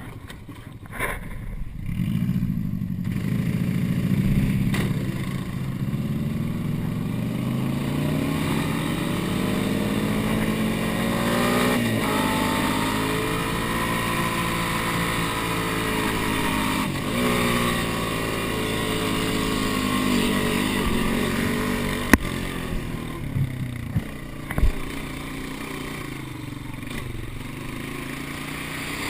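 Subaru twin-turbo wagon's flat-four engine running, its pitch rising slowly and then falling back as the car is driven. A few sharp knocks come near the end.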